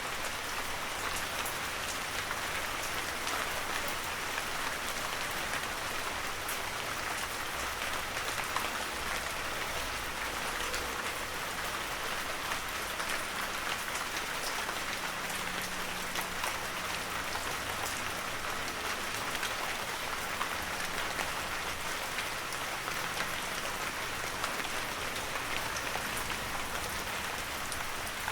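Heavy rain falling steadily on a forest, a dense hiss with countless fine drop ticks.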